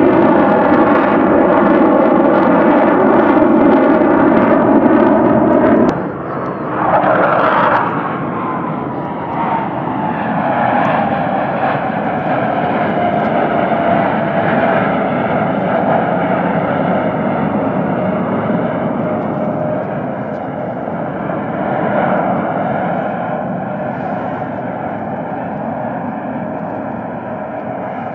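Airplane engines of an aircraft flying past, loud and steady. The sound changes abruptly about six seconds in, then an engine tone slowly falls in pitch as the aircraft moves away.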